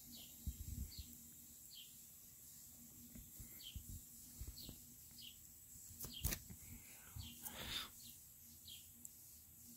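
Faint, short, falling high chirps repeated about once a second, typical of a small bird calling, over soft low thumps. A sharp click about six seconds in is the loudest sound, followed by a brief swish.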